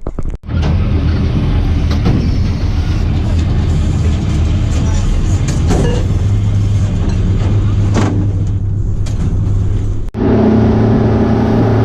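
An engine running steadily with a low hum. The sound breaks off sharply for a moment about half a second in and again near the end.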